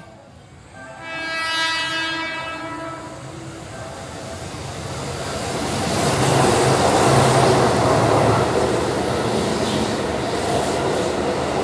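Keihan electric train sounding its horn in one held blast of about three seconds, its pitch falling slightly. Then the train's running noise builds and stays loud, with a clickety-clack of the wheels on the rails.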